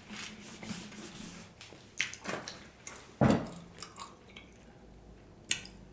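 Close-miked chewing and mouth sounds of a person eating sushi, with a few sharper wet clicks about two and about three seconds in.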